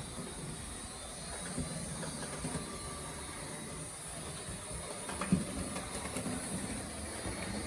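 Märklin model locomotive running on layout track: a steady low motor-and-wheel running noise with occasional light clicks, one sharper click about five seconds in.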